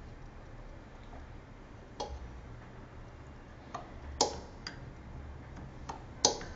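A few sharp, irregularly spaced clicks and knocks, the loudest about four and six seconds in, over a steady low hum.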